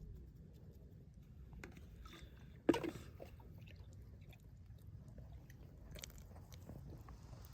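Faint handling of watercolour painting materials: small scattered clicks, with one sharper knock about three seconds in, over a low steady rumble.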